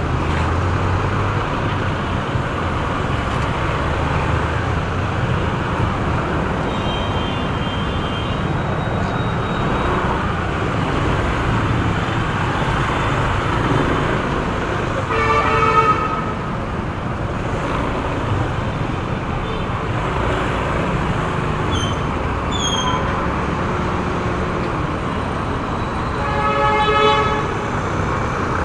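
Steady road and traffic noise heard from a motorcycle moving through traffic. A vehicle horn toots about halfway through, a longer honk comes near the end, and a fainter one sounds about a quarter of the way in.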